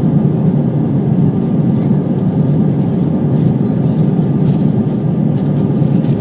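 Steady cabin noise of an Airbus A320 heard from inside the passenger cabin after take-off: an even, constant rumble of its IAE V2500 turbofan engines and airflow over the fuselage.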